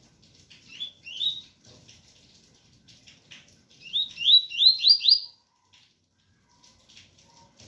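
Double-collared seedeater (coleiro) singing its 'tui-tui' song: two rising whistled notes about a second in, then a quick run of five rising notes around four to five seconds in. Faint rain patter underneath.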